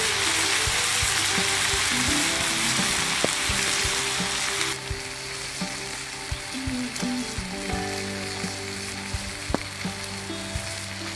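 Food frying in hot oil over a campfire: a steady sizzle with scattered pops, which drops sharply to a quieter hiss about five seconds in. Background music with held notes plays underneath.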